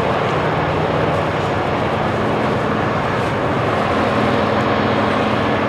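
Diesel semi-truck engine idling steadily: a constant low hum under a broad rushing noise.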